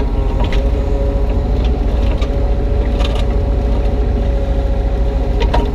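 Kubota U35-3 mini excavator's diesel engine running steadily under digging load, with a held hydraulic whine over it. A few short sharp clicks and knocks come through, about four in all, as the bucket scrapes through stony soil in the trench.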